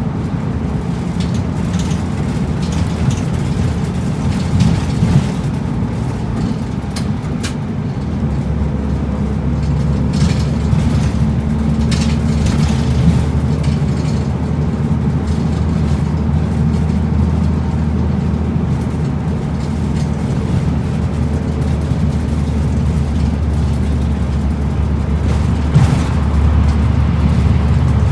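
Route bus under way, heard from inside the cabin: steady engine hum and road noise, with a few short knocks and rattles. About eight seconds in, the engine note turns deeper and stronger.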